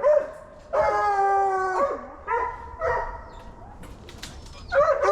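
Deer-hunting hound baying: a long drawn-out howl, two short bawls, then another long howl starting near the end.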